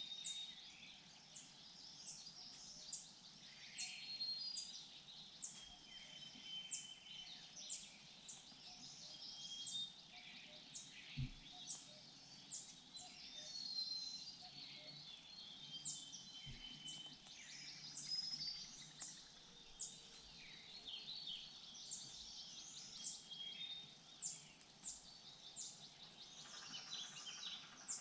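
Wild forest birds calling and singing throughout: a steady run of short, high notes that drop sharply in pitch, one or two a second, mixed with thin whistles. Two soft low thuds come at about 11 and 16 seconds.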